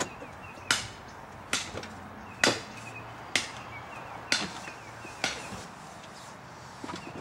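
A series of sharp knocks, evenly spaced about a second apart, the last one about five seconds in.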